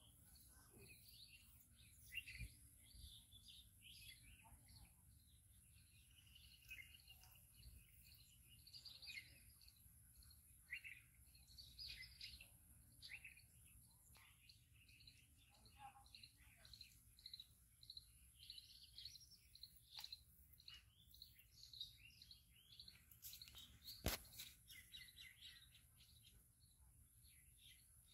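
Small birds chirping and calling, faint, with many short chirps and trills, and a single sharp click about three-quarters of the way through.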